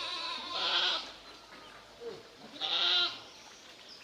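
Goat bleating twice: a wavering call in the first second and a shorter one about three seconds in.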